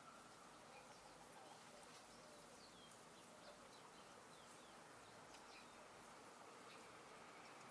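Near silence: a faint steady hiss with scattered faint bird chirps throughout.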